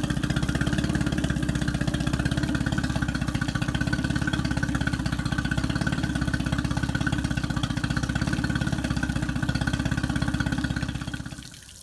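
2018 Mercury FourStroke EFI outboard motor idling steadily with an even pulse while being flushed with fresh water from a hose, run warm so the thermostat opens for a hot flush. The engine sound stops shortly before the end.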